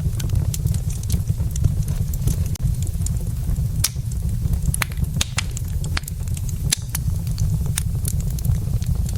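Wood fire burning in a fireplace: irregular sharp crackles and pops from the burning logs over a steady low rumble.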